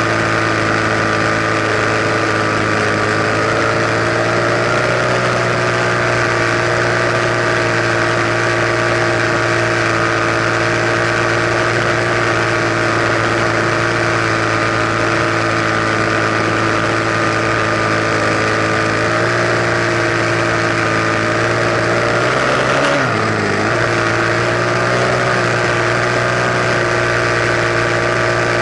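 Enduro dirt bike engine running at a steady pitch while riding, with a brief dip and rise in pitch about five seconds before the end.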